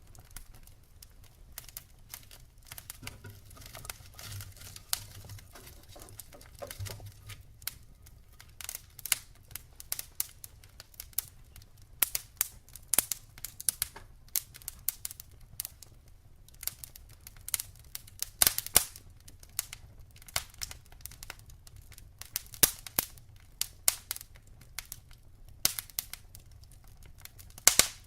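Wood fire crackling: logs burning with irregular sharp pops and snaps over a low rumble of flame.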